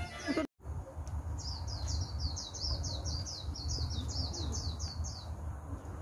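A songbird singing a fast run of high, downward-slurred notes, about four a second, for about four seconds starting a second in. A steady low rumble runs underneath.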